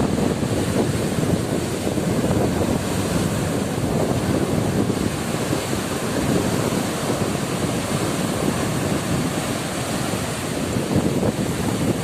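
Heavy storm surf crashing and surging up a flooded beach, with strong wind buffeting the microphone.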